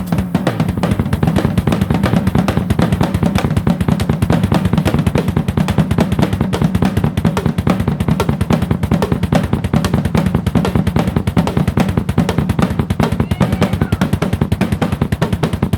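Drum kit played loud and busy, a dense run of rapid strokes with no break.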